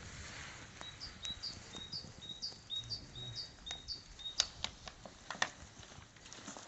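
A small bird singing the same short two-note phrase over and over, about twice a second, for a few seconds. After it come several sharp clicks, the loudest two about a second apart.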